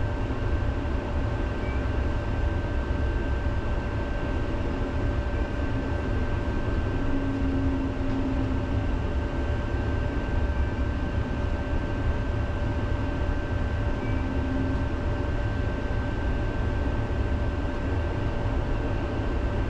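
Helsinki tram running along its rails, heard from inside the car: a steady low rumble with a constant thin whine.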